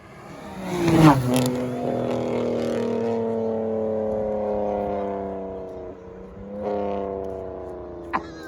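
A car engine accelerating hard past at close range, loudest about a second in, then a steady engine note slowly dropping in pitch as it pulls away, with a brief dip and a second surge about seven seconds in.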